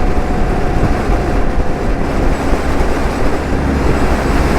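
Motorcycle on the move at highway speed: steady engine and road noise under heavy wind rush on the microphone.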